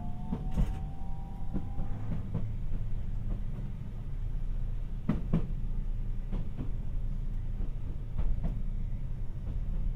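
Tokyu Setagaya Line 300-series light-rail car running, heard from inside with the windows open: a steady low rumble with sharp clacks, often in quick pairs, as the wheels cross rail joints. A faint whine ends about two seconds in.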